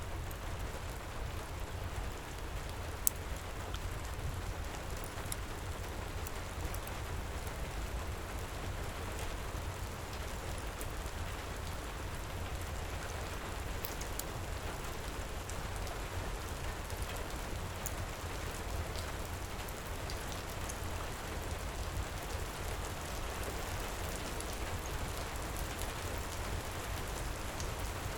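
Heavy rain falling steadily, with a low rumble underneath and scattered sharp pops and crackles of a wood fire, the loudest pop about three seconds in.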